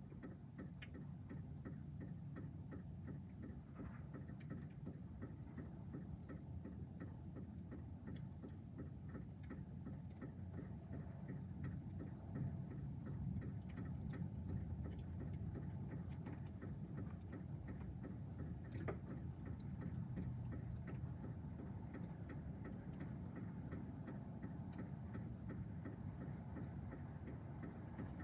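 Raindrops ticking irregularly on a hard surface during a thunderstorm, over a steady low rumble.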